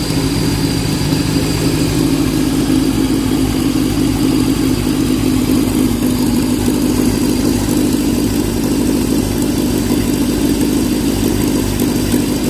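1929 Peugeot 190S's four-cylinder engine idling steadily.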